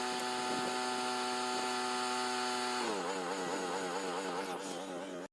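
Sawmill engine running at a steady pitch, then dropping in pitch and wavering about three seconds in as it comes under load while the blade saws through the maple cant. The sound stops abruptly at the end.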